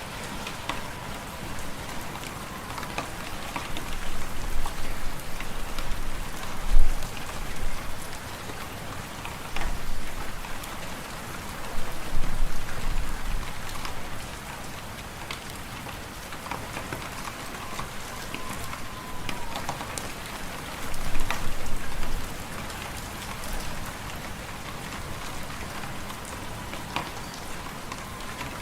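Fireplace fire crackling with scattered sharp pops over a steady hiss, with deep wind swelling up in low gusts several times.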